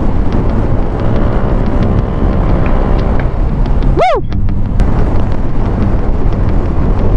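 Heavy wind noise on the microphone over the Yamaha NMAX V2 scooter's single-cylinder engine, running steadily at about 85 km/h. A brief swooping tone rises and falls about four seconds in.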